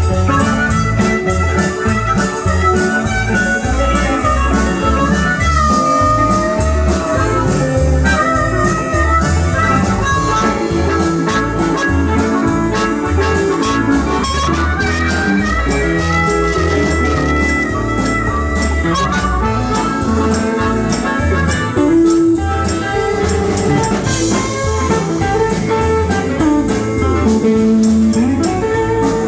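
Country band playing an instrumental break with no singing: a wandering lead melody over guitar and a steady drum-kit beat.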